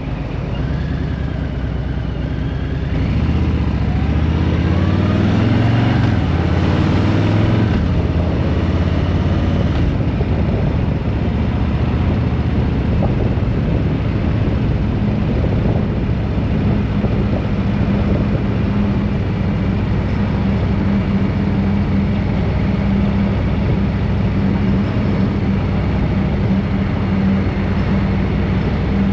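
A road vehicle's engine accelerating, its pitch rising from about three seconds in to about seven seconds, then running at a steady speed with an even, constant tone through the rest.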